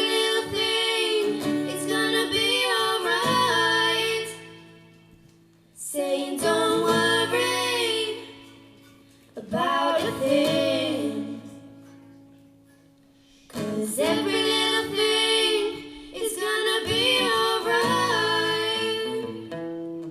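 Music: female voices singing, with acoustic guitar under them, in four phrases with short pauses between.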